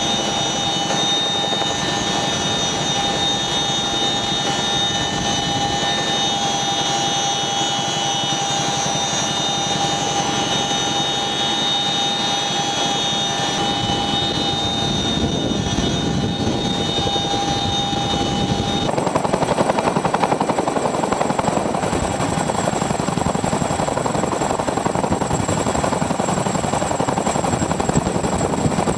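Boeing CH-47 Chinook tandem-rotor helicopter running: a steady turbine whine over rotor and engine noise. About two-thirds of the way through, the sound changes suddenly: the whine shifts to a single higher tone and the rotor noise grows rougher and louder.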